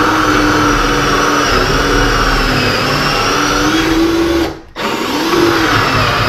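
Electric drill boring the smaller bolt hole through a wooden door, its motor whining steadily under load; it stops briefly about four and a half seconds in, then starts again.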